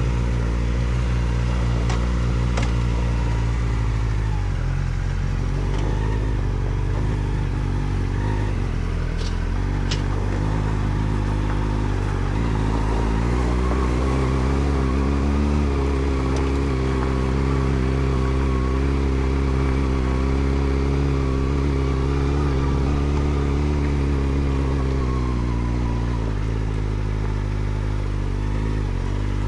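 Kawasaki Ninja ZX-4RR's 399 cc inline-four engine running through an Arrow Indy Race Evo titanium exhaust with the dB killer fitted, on a ride. Engine speed drops about four seconds in, climbs again around twelve seconds in and holds steady, then eases off near the end.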